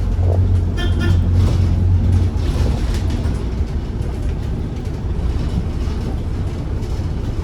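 City bus engine rumbling low and steady, heard from inside the cabin as the bus comes in to its stop. A brief high-pitched tone sounds about a second in.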